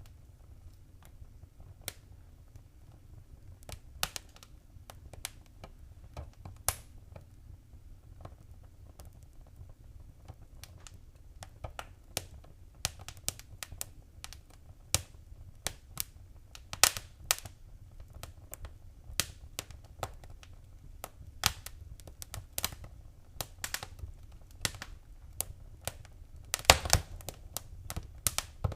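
Wood fire crackling in a fireplace: irregular sharp pops and snaps over a low steady rumble. The pops come sparsely at first, grow more frequent after a few seconds, and a quick cluster of louder pops comes near the end.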